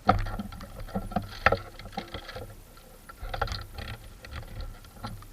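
Irregular clicks, knocks and rustling close to the microphone, with no steady rhythm: handling or movement noise of a player's gear.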